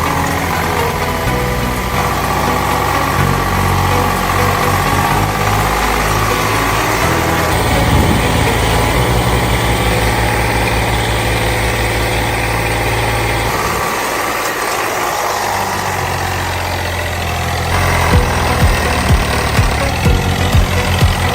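Tractor diesel engine running, its sound changing abruptly several times. In the last few seconds it is louder and pulses steadily.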